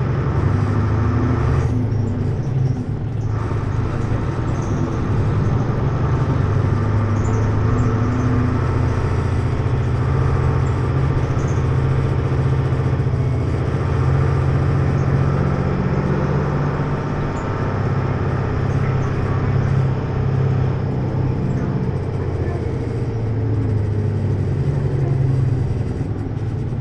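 Hino U-HT2MLAA city bus's diesel engine and drivetrain heard from inside the cabin while it drives, the engine note rising and falling with speed and gear changes. The uploader notes that this ageing bus has begun to make abnormal noises.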